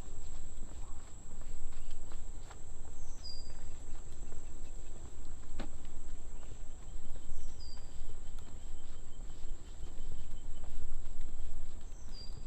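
Insects droning in one steady high tone, with a bird giving a short falling chirp three times about four seconds apart, over a constant low rumble.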